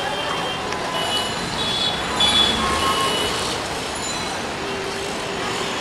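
An intercity train's last coaches rolling slowly away along the track: a steady running noise with short high-pitched tones breaking through now and then, a little louder about two seconds in.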